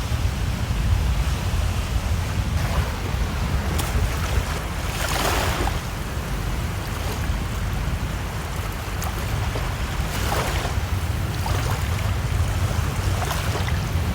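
Ocean surf washing on the beach under steady wind rumbling on the microphone, with two larger waves washing in about five and ten seconds in.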